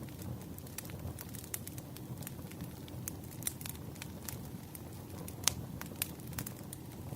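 Wood fire burning with a low steady rumble and irregular sharp crackles and pops, a couple of louder pops about five and six seconds in.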